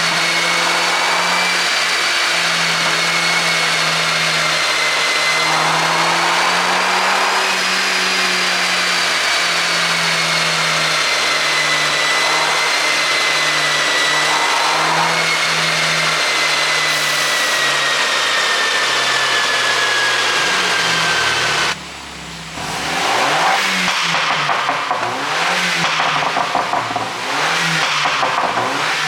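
A motor or engine running loudly with a steady high whine that slowly drifts down in pitch. About twenty-two seconds in it briefly drops off, then turns uneven and pulsing.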